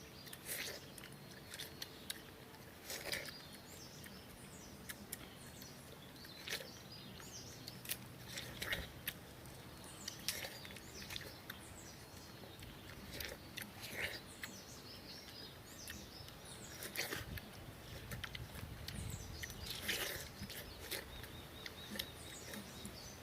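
People biting into and chewing watermelon, with short crisp bites coming irregularly every second or few seconds.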